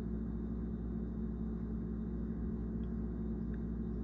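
Steady low machine hum with a few constant tones, unchanging throughout.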